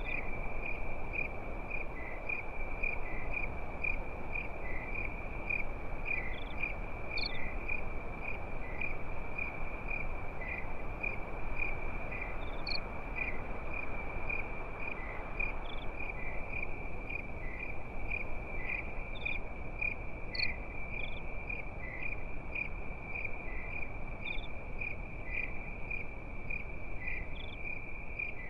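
Crickets chirping in a steady, continuous chorus, with a rapid pulsing trill and scattered higher chirps from other insects, over an even low background hiss.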